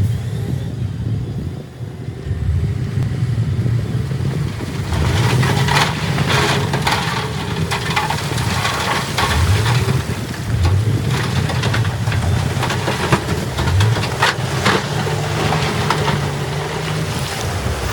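Heavy diesel earthmoving machine running, its engine revving up several times, with repeated clattering and knocks beginning about five seconds in, like rock and steel being moved.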